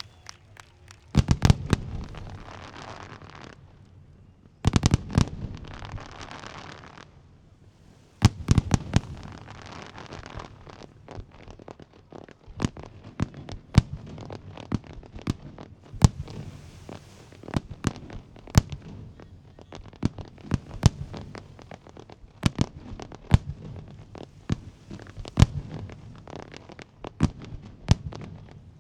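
Jinli Fireworks display going off: three volleys of loud bangs about one, five and eight seconds in, each trailing off in crackle, then a steady run of single reports about once or twice a second.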